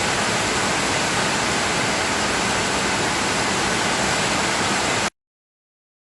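Steady, dense hiss of heavy rain that runs at an even level and cuts off abruptly about five seconds in.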